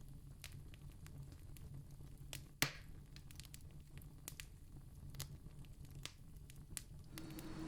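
Campfire crackling softly: scattered wood pops and clicks over a low steady rumble, with one sharp, louder pop about two and a half seconds in. Just before the end a steadier rushing noise comes in.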